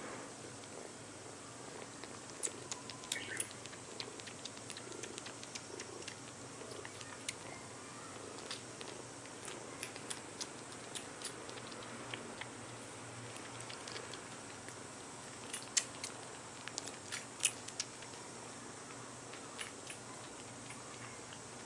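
Five-week-old kitten suckling: small wet sucking clicks at irregular intervals, a few louder near the end, over a low steady purr.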